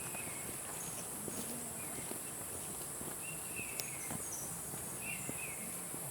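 Forest insects keeping up a steady, high-pitched chorus, with a bird's short call repeated about three times.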